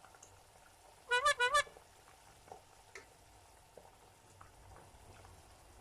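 A few faint clicks of a utensil poking chicken in a simmering pot, checking whether it is tender. About a second in comes a short, loud, high-pitched call of four quick notes.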